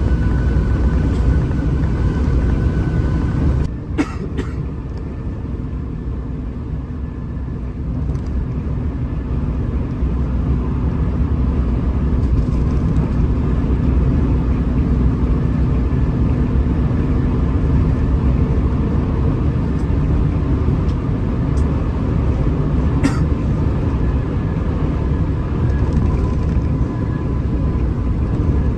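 Hino RM 280 bus running at highway speed: a steady low rumble of engine and road noise with a few faint steady tones. The loudness dips briefly with a click about four seconds in, and there is another click later on.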